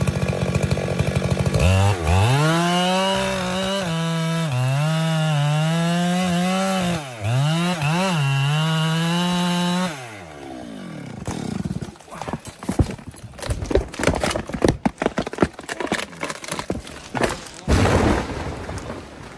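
Two-stroke chainsaw running at high revs through a cut, its engine note dipping and recovering again and again as the chain bogs under load, then dropping off about ten seconds in. Irregular sharp cracks and knocks follow.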